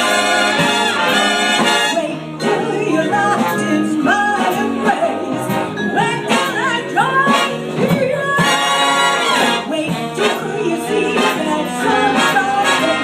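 Live big band playing an instrumental swing passage: full brass section of trumpets and trombones hitting loud ensemble chords near the start and again about eight and a half seconds in, with a single melodic solo line winding between.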